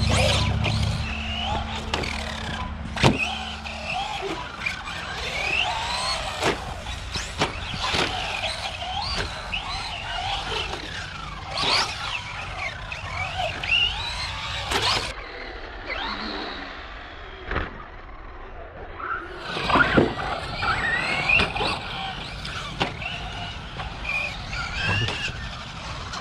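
RC short-course truck's 3665 3100kv brushless motor on 4S whining up and down in pitch as it is driven hard, with tyre squeals and several sharp knocks.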